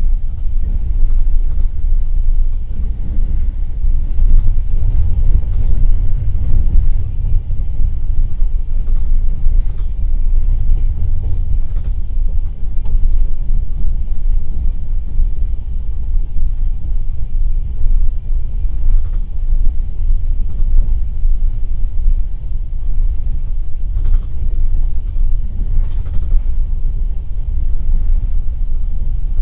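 Passenger train carriage running at speed, heard at the window of an open-berth car: a loud, steady low rumble of wheels on track, with faint clicks every few seconds.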